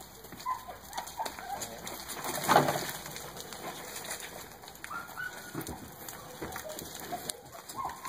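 Birds calling with many short calls scattered throughout, plus one louder, fuller sound about two and a half seconds in.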